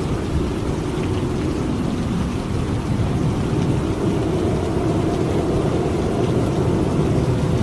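Steady heavy rain falling, with a continuous low rumble of thunder under it.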